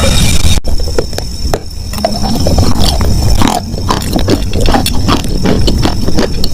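Close-miked chewing and crunching of wet chalk, a run of irregular crisp crunches and crackles over a low mouth rumble.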